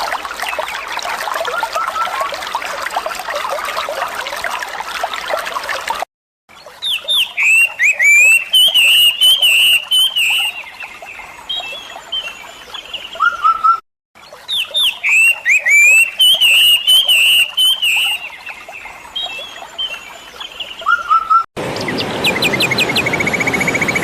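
Running water from a stream with faint bird chirps, then a bird singing quick runs of rising and falling chirps, the same song passage heard twice in a row. A different sound takes over in the last two seconds.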